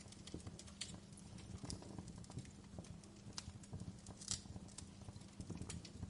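Wood fire crackling in a fireplace: irregular sharp pops and snaps, several a second, over a low rumble of the flames, with one louder snap a little past four seconds in.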